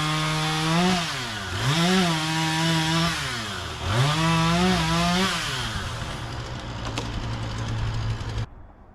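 Chainsaw running at high revs, its pitch dipping and climbing back twice, then dropping to idle for a few seconds before cutting off suddenly near the end.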